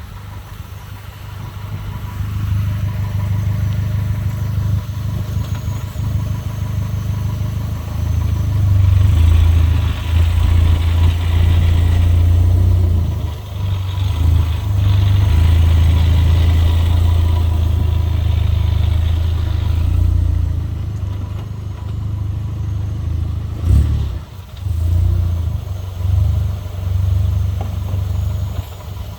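Mk6 Jetta GLI's turbocharged 2.0 TSI engine and DSG gearbox at low speed. The low rumble swells and dips, a hiss joins it from about 8 to 20 seconds, and there is one sharp knock about 24 seconds in. The owner describes a weird noise from the DSG at slow speeds, in reverse and when downshifting or decelerating, where the drive sounds disconnected.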